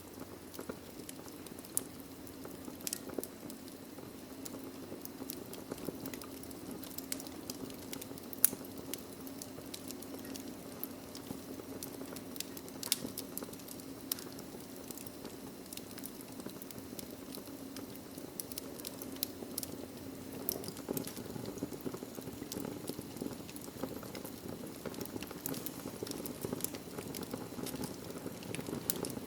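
Wood logs burning in a fireplace: a steady low rush of flame with scattered sharp crackles and pops, one louder pop about eight seconds in.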